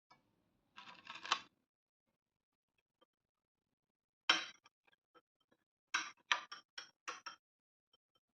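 Kitchen utensils and dishes clinking: a short rattle about a second in, one sharp clink past the middle, then a quick run of about six clinks near the end.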